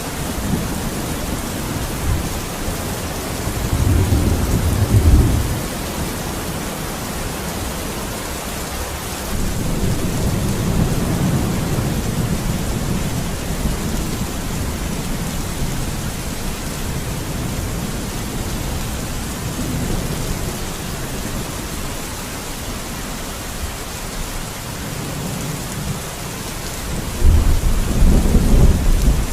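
Steady rain with rolls of thunder: a short loud rumble about four seconds in, a longer, softer roll from about ten seconds, and another loud rumble near the end.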